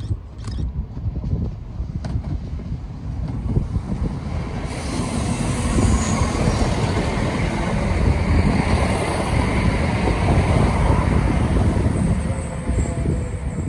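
ScotRail Class 170 Turbostar diesel multiple unit approaching and passing close by, its running and wheel-on-rail noise building over the first few seconds, loudest from about five seconds in, then starting to ease near the end.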